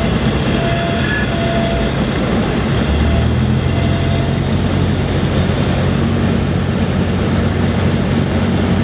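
Single-engine Cessna's piston engine and propeller droning steadily during a landing, with a deeper rumble coming in about three seconds in.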